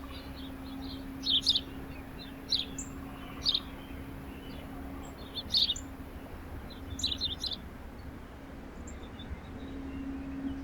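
Small songbirds chirping: short, high chirps every second or two, with a quick run of several chirps about seven seconds in.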